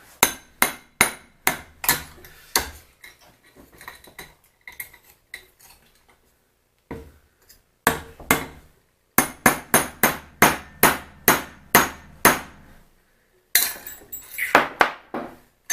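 Hammer striking metal in repeated sharp blows, about two to three a second, each with a short ring. The blows come in runs, with a pause of a couple of seconds about halfway through.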